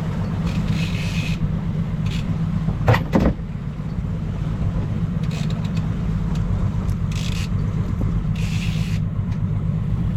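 Boat engine running steadily under way while trolling, with a sharp knock about three seconds in and a few short bursts of hiss.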